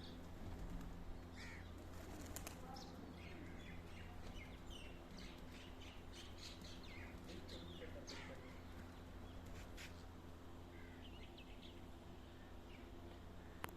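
Birds chirping in short, scattered calls over a steady low hum, with a few sharp clicks.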